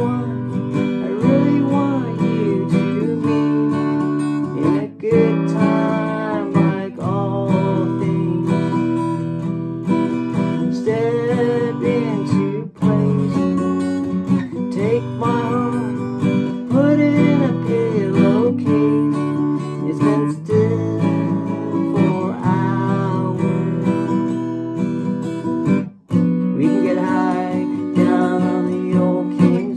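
Acoustic guitar strummed steadily through the song's chords, with a wavering melody line over it in an instrumental passage.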